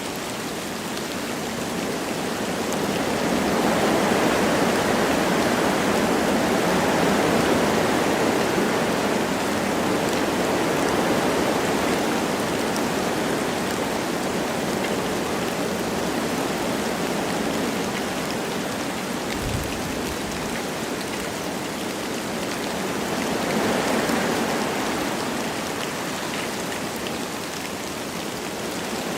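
Wind blowing through forest trees with light rain falling, a steady rushing hiss that rises and falls in gusts, swelling a few seconds in and again near the end.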